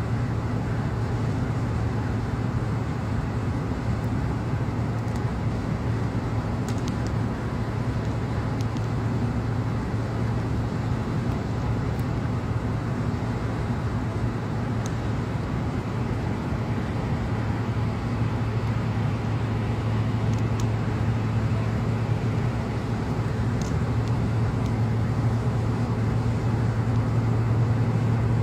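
Car driving at highway speed: steady road and tyre noise with a constant low hum, unchanging throughout, and a few faint ticks.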